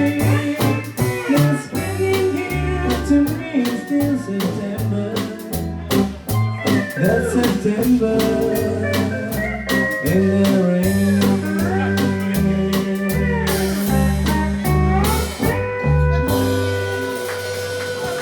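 Live country-swing band playing an instrumental ending: pedal steel guitar sliding between notes over bass and drums. About sixteen seconds in, the band lands on a final held chord with a cymbal wash, which rings and fades.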